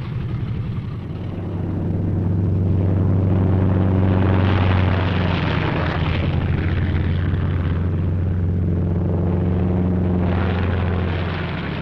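Piston engines of P-47 Thunderbolt fighters at takeoff power, taking off in a pair, a steady deep drone that swells louder about four seconds in and again near the ten-second mark before easing off.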